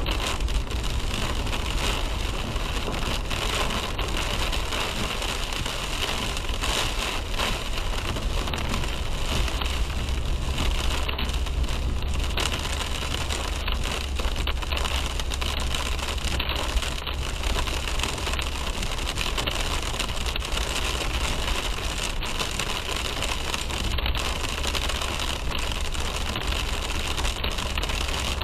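Rain falling on a moving car's roof and windshield, a dense spatter of drops, over a steady low rumble of road and engine.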